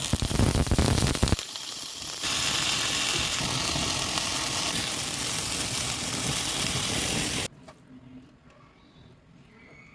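Food frying in a hot pan. For about the first second and a half it is stirred with a clattering scrape, then it gives a steady hissing sizzle that cuts off suddenly about three-quarters of the way through, leaving only a faint background.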